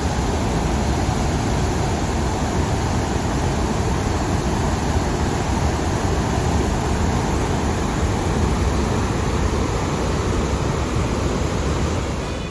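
Maruyama Dam's spillway discharge: a steady, loud rush of falling and churning water, a high release after heavy rain.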